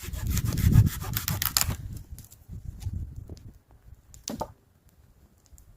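Hand saw cutting through wood in quick, even strokes that stop about two seconds in. Scattered light knocks follow, with one sharper knock about four seconds in.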